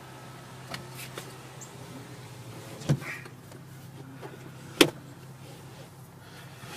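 Steady low hum heard from inside a car waiting at an automatic car wash, with a few light clicks and two sharp knocks, the louder one about five seconds in.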